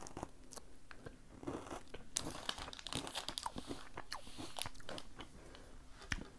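Someone chewing a bite of a Lion Brownie Style chocolate bar close to the microphone, with irregular crunching of its wafer and crisped cereal.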